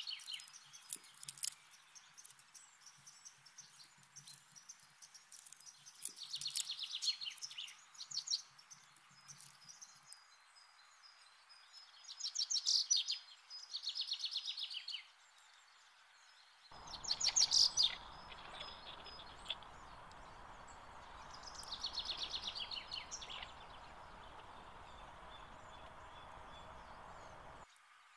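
A songbird singing short, quick trilled phrases that fall slightly in pitch, repeated every few seconds, over a faint outdoor background. Partway through, a steady hiss comes in and cuts off just before the end.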